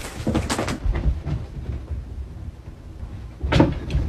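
A few knocks and bumps, with one louder knock about three and a half seconds in.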